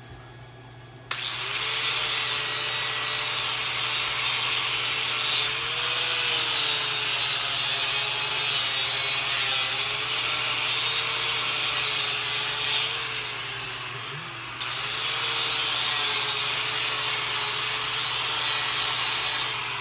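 Angle grinder cutting into steel on a minibike frame, a harsh grinding hiss over a motor whine that dips in pitch as it bears down. It runs for about twelve seconds, stops briefly, then grinds again for about five seconds.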